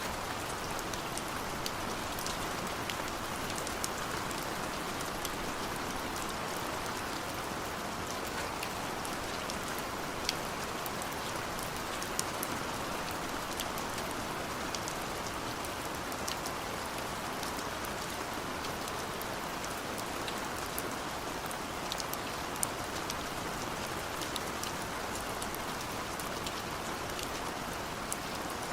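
Steady rain falling, an even hiss with scattered sharp drop impacts.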